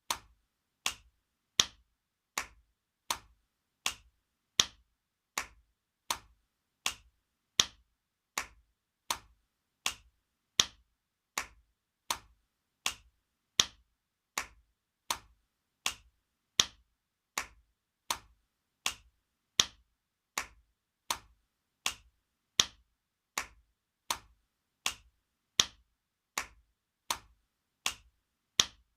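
Spanking sound effect: sharp hand slaps on skin repeated evenly, about four every three seconds, some noticeably louder than others.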